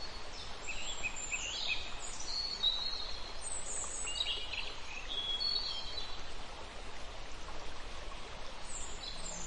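Birds chirping and calling over a steady background hiss of outdoor ambience, the calls short and high, some sliding downward.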